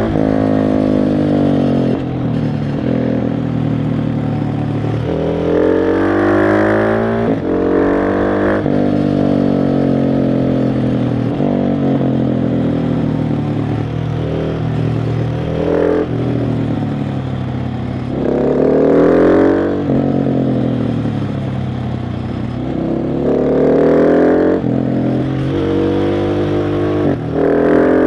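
KTM 690 SMC R's single-cylinder engine under way, the revs rising again and again under throttle and falling off between the pulls.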